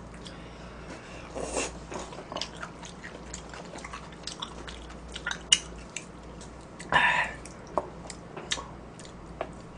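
Close-up mouth sounds of someone chewing a mouthful of mul-hoe, a cold raw-fish soup. Small, irregular wet clicks and smacks run through it, with one short, louder sound about seven seconds in.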